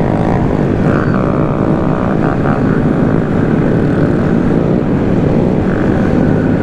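Several small gas mini-bike engines (Honda Groms) running together on the move, their pitch rising and falling as riders rev.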